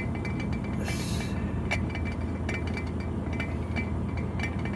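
Lid of a cooking pot rattling on the boil, lifting and dropping in quick, irregular metallic clinks, several a second, over a steady low rumble.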